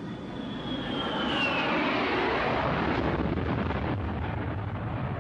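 Jet airliner engines: a high whine falling in pitch over the first two seconds or so, over a steady rush of engine noise.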